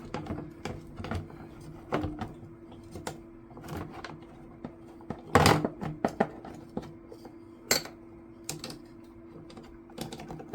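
Metal hand tools clicking and knocking against a small engine's intake while a tight bolt is worked loose with a wrench. The clicks are scattered, with a louder clatter about five seconds in, over a steady low hum.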